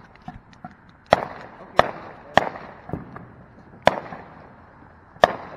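Fireworks going off: a run of about six sharp bangs at irregular intervals, with faint smaller pops in the first second.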